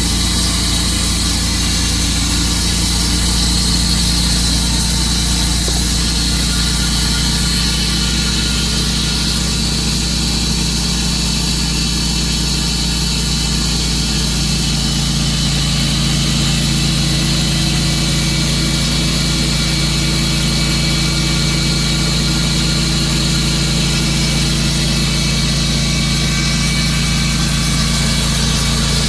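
Tru-Cut sawmill's engine running steadily, its note shifting slightly about halfway through.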